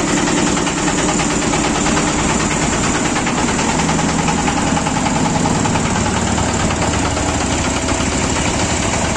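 Engine of a homemade mini tractor running steadily, with a fast, even firing beat.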